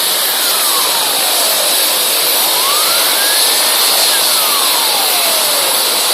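Rescue helicopter's turbine engine running steadily after warm-up, a loud even rush with a high whine. Over it a siren wails slowly up and down, about one cycle every four seconds.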